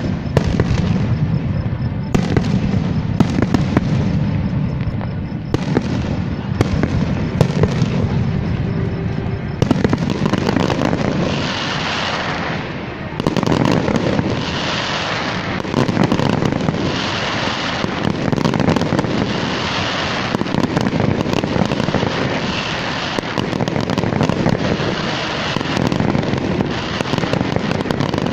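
Fireworks going off: many sharp bangs over a low rumble for the first ten seconds or so, then a denser run of bursts that swells and fades about once a second.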